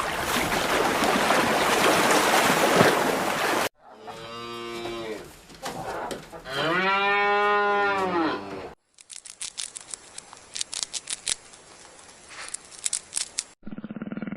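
A cow mooing twice, a fainter call and then a louder, longer one that rises and falls in pitch. Before the calls there is a few seconds of even rushing noise, and after them a run of scattered sharp clicks.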